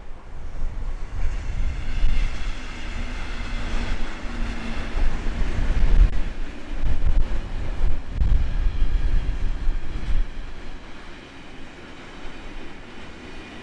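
An intermodal freight train hauled by a Siemens Vectron electric locomotive (BR 193) rolls past with a heavy low rumble of wheels on rail. Higher tones ring over the rumble for the first few seconds as the locomotive goes by. The sound grows quieter after about ten seconds as the trailer-carrying wagons keep rolling past.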